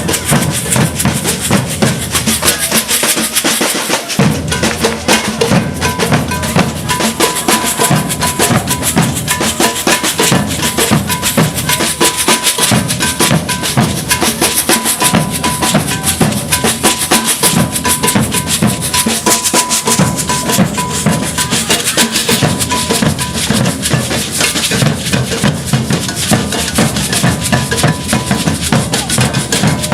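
Maracatu de baque virado percussion ensemble drumming continuously: deep alfaia bass drums and rattling caixa snare drums playing a driving, unbroken rhythm.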